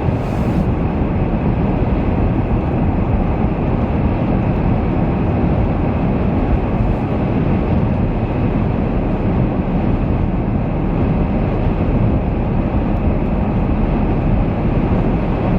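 Steady road and wind noise heard inside a moving vehicle driving a snow-covered highway in a blizzard.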